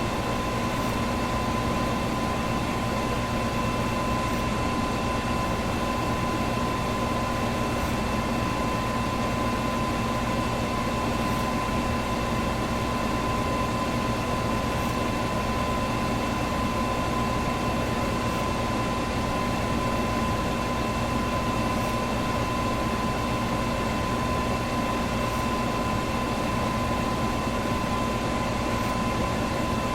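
Electric fan running steadily: an even rush of air with a low motor hum and a thin, steady whine on top.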